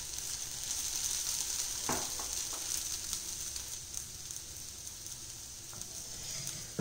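Oil sizzling under a ragi dosa frying on a hot dosa tawa, its second side roasting in freshly drizzled oil. A steady hiss that eases slightly, with a faint tap about two seconds in.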